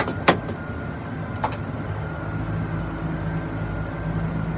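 Pushback tug's engine running steadily, its hum getting a little louder about two seconds in. A couple of sharp clicks come near the start.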